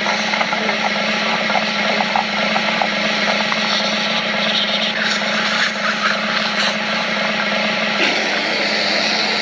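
Cartoon vacuum-cleaner sound effect: a vacuum's suction running steadily, a continuous rushing hiss over a steady low hum.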